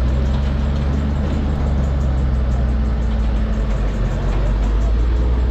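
Heavy vehicle's diesel engine running steadily with a deep, even hum.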